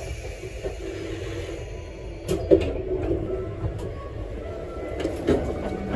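Train noise: a steady low rumble with a few short knocks, about two and a half seconds in and again past five seconds.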